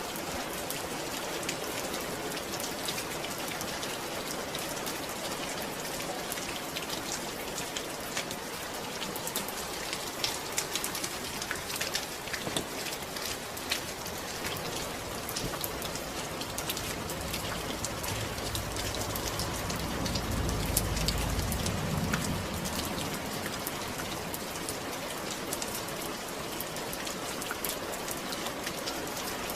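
Steady rain, a dense hiss with many individual drops ticking sharply on a surface. About two-thirds of the way through, a low rumble swells up and fades away over a few seconds.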